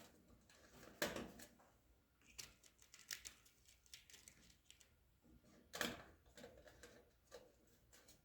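Scattered light clicks and taps of small hardware and tools being handled, with a louder knock about a second in and another near six seconds in.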